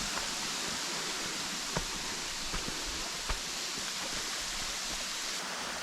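Steady rush of a small waterfall running low on water, with a few faint taps about two to three seconds in.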